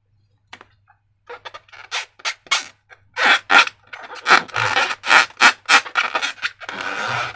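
Slime being squeezed and worked by hand: an irregular run of short sticky clicks and squelches that starts a second or so in and grows quicker and louder.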